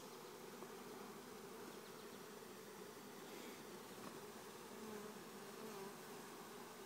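A swarm of honeybees buzzing: a faint, steady hum of many wingbeats.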